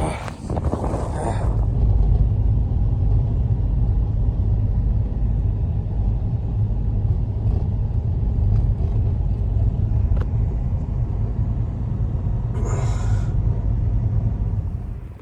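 Strong blizzard wind buffeting the microphone: a loud, steady low rumble, with a short hissing gust near the end.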